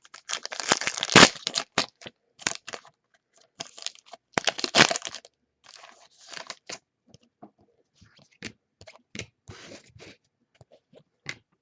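Crinkling and tearing of a trading-card pack wrapper, with cards being handled and shuffled. The loudest crinkling comes in the first two seconds and again about five seconds in, then lighter scratching and ticks.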